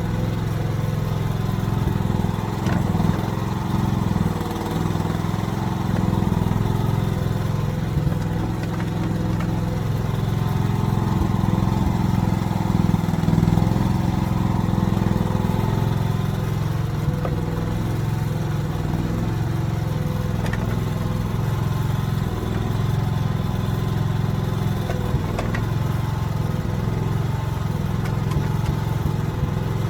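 AGT mini excavator's small engine running steadily, swelling slightly at times as the hydraulics work, with a few faint clicks.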